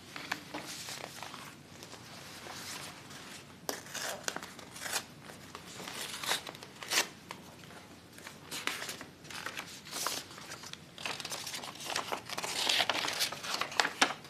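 Irregular crinkling and rustling handling noise broken by sharp clicks, busiest near the end.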